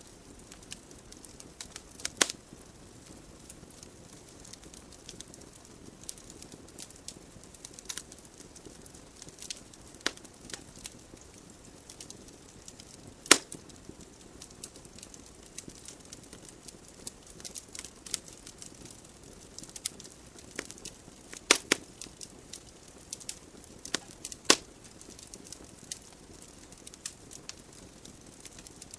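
Wood logs burning in a fireplace: a soft steady hiss of flames with irregular sharp crackles and pops, a few louder snaps standing out about two, thirteen, twenty-one and twenty-four seconds in.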